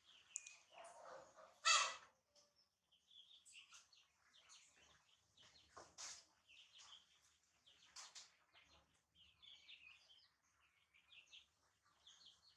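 Small birds chirping on and off with short, high calls, and one brief, louder sound nearly two seconds in.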